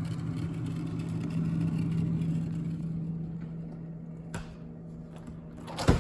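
GE GTH18XCTZRBB refrigerator running with a steady low hum, with a sharp click a little past four seconds in and a louder knock near the end.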